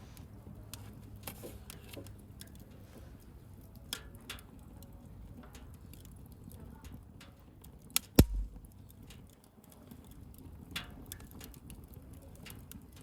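Wood fire crackling, with small irregular pops and snaps, and one loud sharp pop about eight seconds in.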